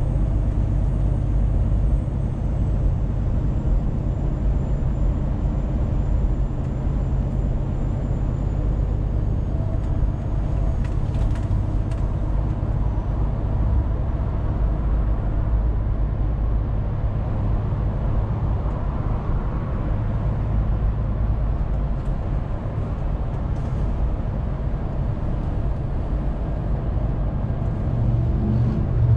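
Scania truck's engine running steadily while driving, with a low, even drone and road noise. Near the end the low engine note grows louder.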